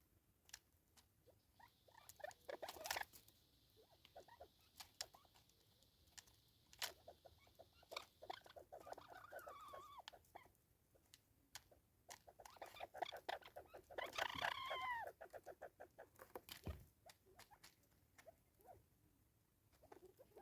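Birds giving harsh calls that slide down in pitch, among many sharp clicks and taps. The loudest calls come about two thirds of the way in.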